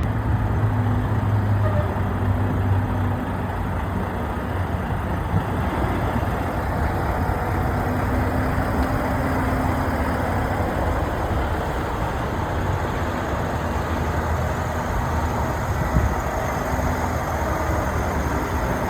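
A motor vehicle's engine running steadily with a low hum, without revving.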